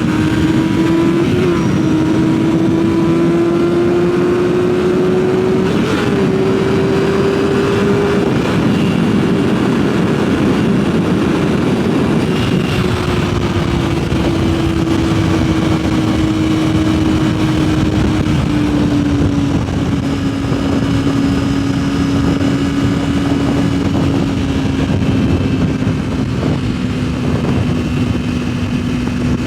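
Yamaha sportbike engine running at speed, its steady tone rising slowly for about eight seconds and then easing down gradually as the throttle comes off, under heavy wind rush on the microphone.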